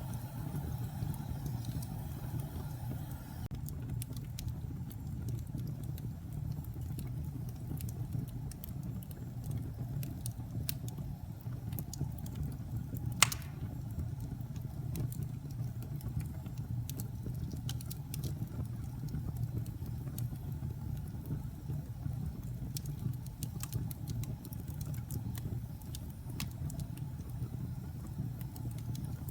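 Wood fire burning in a fireplace: a steady low rumble of flames with scattered sharp crackles and snaps, and one loud pop about 13 seconds in.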